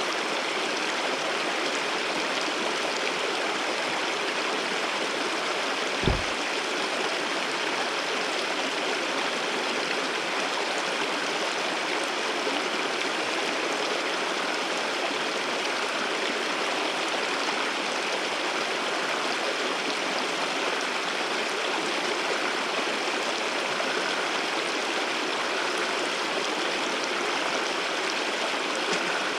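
Waterfall water rushing and splashing steadily, with a brief low thump about six seconds in.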